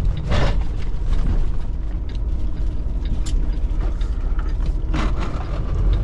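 Semi-truck cab creaking and rattling during a right turn, with sharp clicks and creaks at irregular moments, the strongest about half a second in and again about five seconds in, over the low steady sound of the diesel engine.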